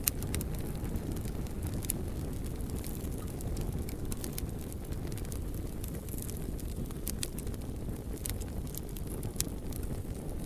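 Wood fire burning: a steady low rumble of flames with scattered sharp crackles and pops at irregular intervals.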